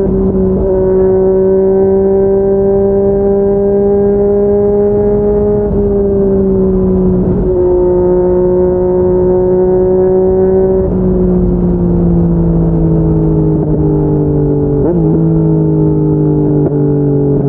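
Yamaha MT-09's three-cylinder engine running through a Yoshimura R55 slip-on exhaust under way. It holds a steady note for most of the time, breaking briefly a few times, then its pitch falls gradually over the last several seconds as the revs drop.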